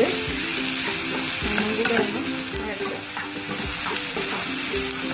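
Sliced onions, shallots and dried red chillies sautéing in hot coconut oil in a nonstick pan, with a steady sizzle. A wooden spatula stirs and scrapes them, making short scraping knocks against the pan again and again.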